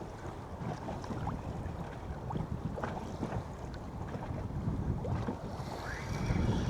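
Wind buffeting the microphone and water slapping against the hull of a small drifting boat in choppy sea, with a few faint ticks and a brief hiss about six seconds in.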